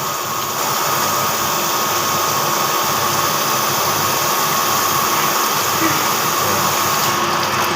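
Grinding machine running steadily with a constant whine, as used for grinding a Toyota 5L camshaft.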